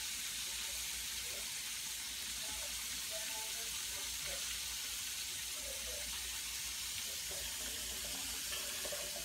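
Chicken frying in a pan: a steady, even sizzle.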